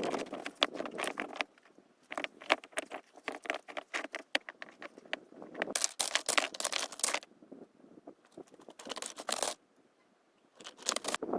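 Stones and grit crunching and clicking on loose rocky ground, in several bursts of a second or a few seconds with short quiet pauses between.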